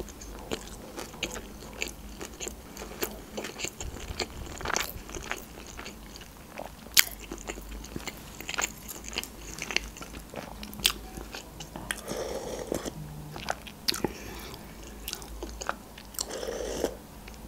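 Close-miked chewing of crunchy deep-fried (tempura) sushi rolls: irregular crisp crunches with wet chewing between them, a few sharper crunches standing out. Near the end a spoonful of soup is taken.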